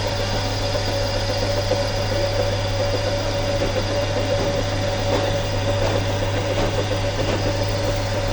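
A workshop machine running steadily, with a constant low hum and a steady whine.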